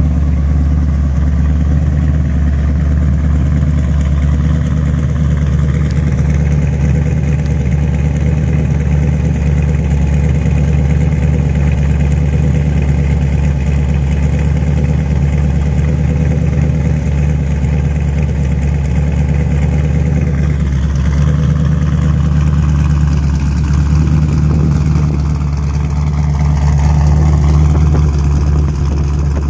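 1932 Ford truck's engine running steadily, with a shift in pitch and a slight rise in level in the last several seconds.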